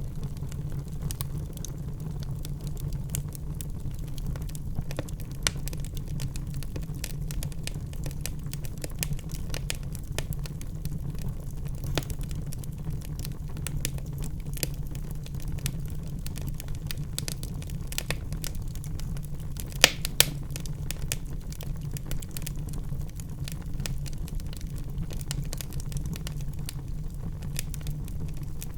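Log fire burning in a fireplace: a steady low rumble of the flames with a continual scatter of small crackles and pops, two louder snaps close together about twenty seconds in.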